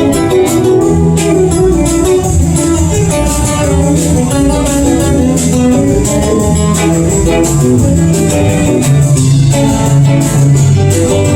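Live rock band playing an instrumental section, with a guitar on top over bass and a steady drum and cymbal beat.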